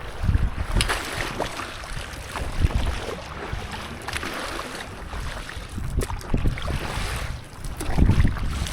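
Sea water splashing and lapping around a stand-up paddleboard, with wind buffeting the microphone in low gusts, strongest about half a second in and near the end.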